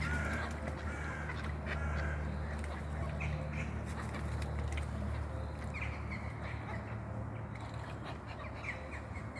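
Gulls and other park birds calling in short, scattered cries over a steady low rumble.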